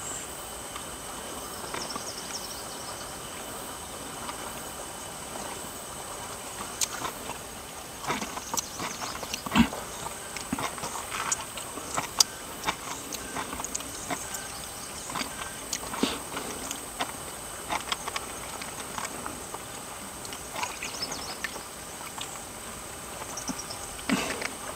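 A steady, high insect trill, with scattered sharp clicks and knocks of things being handled, the loudest about ten seconds in.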